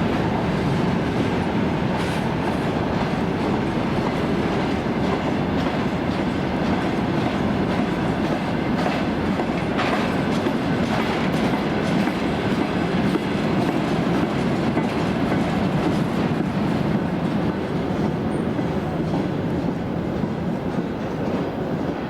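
A train rolling steadily past: a continuous rumble of wheels on rail, with clicks as the wheels cross rail joints.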